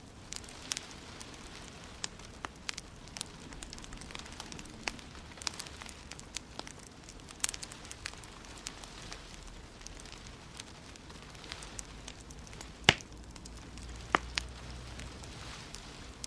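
Wood fire crackling in a fireplace: irregular sharp pops and snaps over a soft steady hiss, with one much louder pop about three-quarters of the way through.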